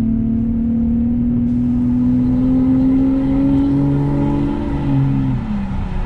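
Straight-piped 6.0-litre V12 of a BMW 760Li (E66) pulling under acceleration, its note rising steadily in pitch for about five seconds and then dropping as the revs fall near the end, heard from inside the cabin.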